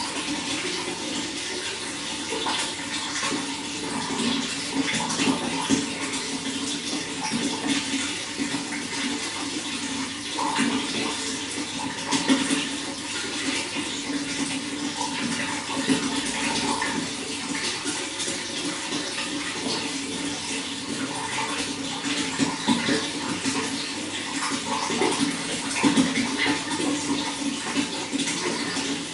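Running water flowing steadily, with frequent small splashes and gurgles coming and going.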